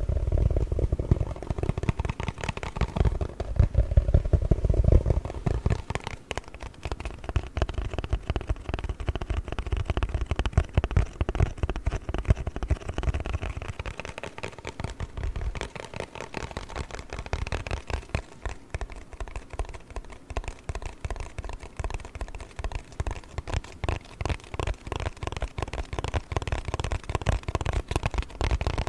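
A cardboard box being tapped and scratched rapidly, giving a dense run of small clicks and scrapes.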